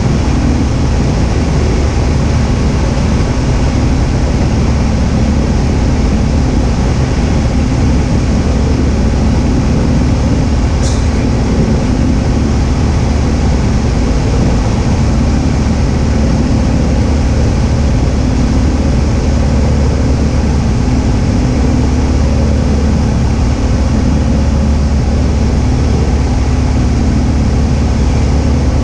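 Cessna 172H's six-cylinder Continental O-300 piston engine and propeller droning steadily in flight, heard from inside the cabin. There is one brief high click about eleven seconds in.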